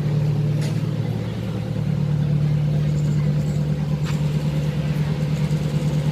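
Heavy diesel engine running steadily at an even pitch, with a few faint ticks over it.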